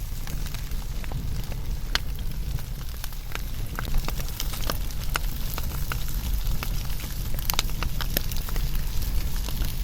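Wood fire burning: a steady low rumble of flames under frequent irregular sharp crackles and pops from the burning wood, busiest near the end.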